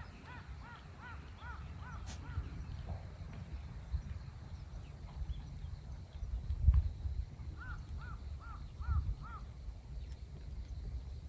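A bird giving two runs of quick repeated calls, about seven at the start and five more near the end, over a low wind rumble on the microphone that gusts loudest about two-thirds of the way in.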